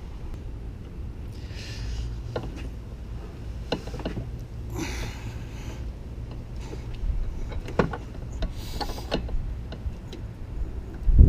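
Tools and metal parts handled in a car's engine bay: scattered clicks and knocks, with a few short bursts of rustling, over a steady low rumble.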